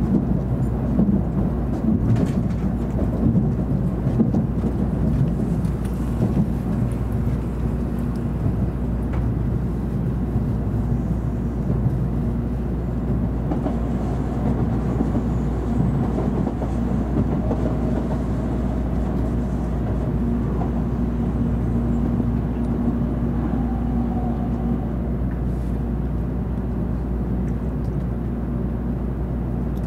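Running noise of a JR Central N700 Series Shinkansen heard inside the passenger cabin: a steady low rumble of the moving train. A faint whine comes in partway through and fades again.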